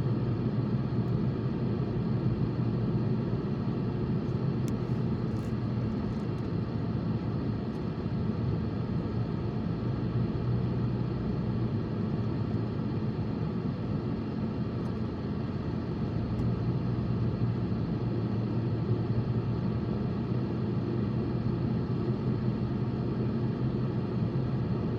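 Steady rumble of a car being driven: engine and road noise.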